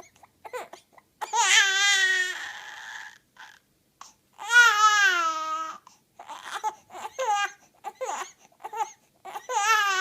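Two-month-old baby crying: two long wavering wails, then a run of short broken cries, and another wail starting near the end.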